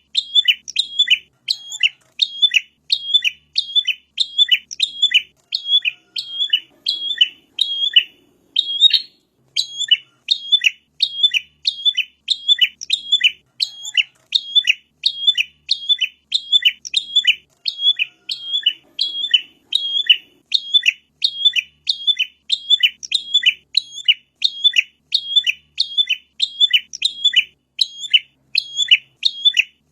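A prinia (prenjak) calling one sharp, high chirp over and over, about two a second, with a short break about nine seconds in.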